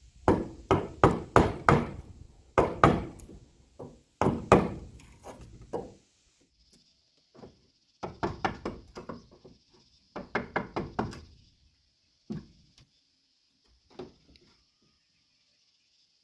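Hammer blows on wood, in quick runs of about three strikes a second with pauses between them and a few single knocks near the end. A steady high hiss runs behind them.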